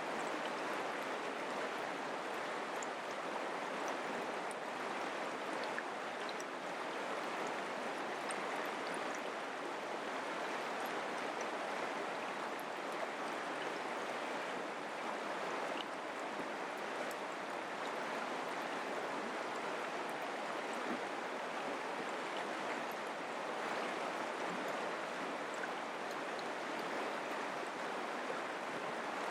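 Mountain creek flowing: a steady rush of water, with scattered small splashes and droplet ticks.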